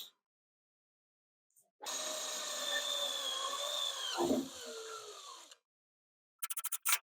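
Power drill running steadily for about four seconds while drilling a mounting hole for the number plate, its pitch dipping once and then falling away as it stops. Near the end, a rapid run of clicks.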